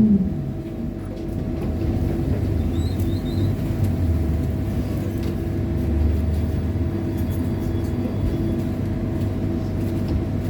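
Trolleybus running, heard from inside: a falling motor whine dies away at the very start, then a steady low rumble with a constant electrical hum.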